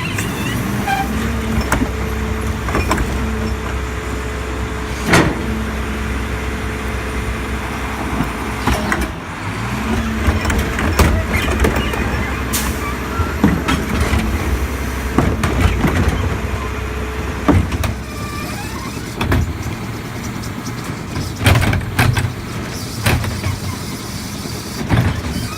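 Diesel engine of a Mack LEU garbage truck running steadily. A steady whine is heard from about a second in until about nine seconds in. Repeated sharp metal clanks and bangs come throughout.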